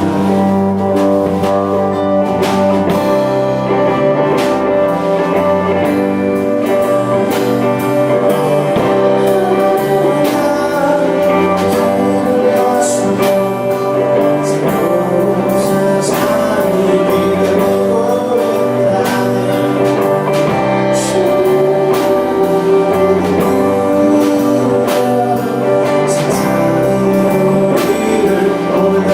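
A band playing a song live, with guitars over a moving bass line.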